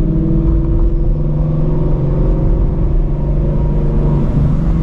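Ford Mustang Shelby GT350's 5.2-litre flat-plane-crank V8, straight-piped with long-tube headers, running at a steady engine speed with a deep exhaust rumble.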